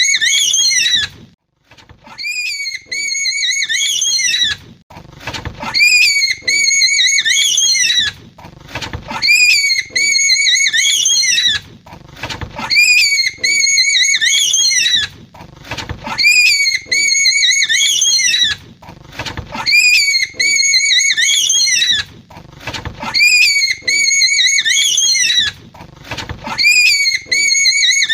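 A high, wavering animal call repeated about nine times, each call about 3 seconds long with half-second gaps between.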